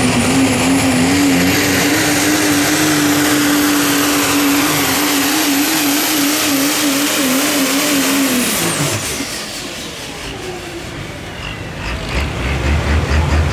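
Super stock diesel pulling truck running at full throttle under load, with a steady engine drone and a high, held turbo whistle. About two-thirds of the way through the throttle comes off and the engine and whistle both fall away quickly, leaving a quieter stretch before a low rumble starts near the end.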